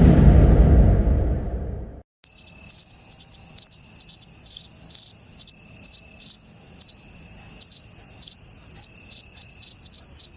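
Crickets chirping: a steady high trill with quick pulses, starting about two seconds in. Before it, the deep tail of a whoosh effect fades out.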